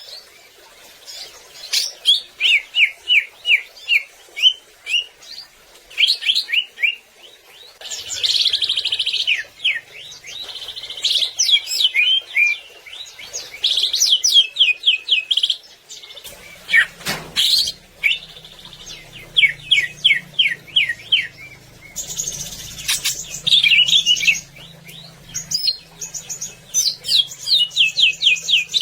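Cucak ijo (green leafbird) singing in loud, varied phrases: quick runs of short, falling whistled notes alternating with fast, buzzy trills, with barely a pause between phrases.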